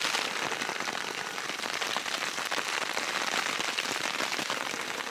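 Heavy rain falling on a tent, heard from inside: a steady, dense patter of drops on the fabric.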